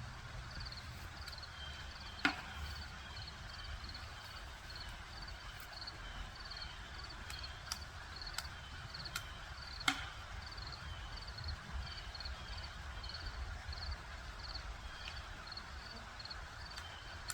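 Pileated woodpecker chiselling at wood: scattered single knocks at irregular intervals, the two loudest about two seconds in and near ten seconds. A faint high chirp repeats about twice a second throughout.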